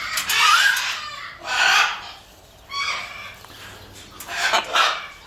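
Parrots squawking: about four short, harsh calls with pauses between them.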